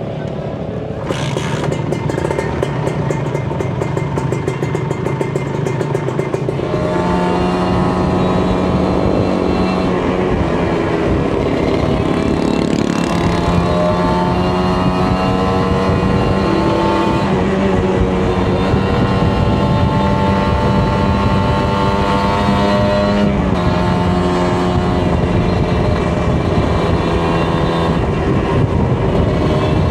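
Kawasaki Ninja 150 RR's two-stroke single-cylinder engine running under way. Its note holds steady for stretches and steps up or down several times as revs and gears change.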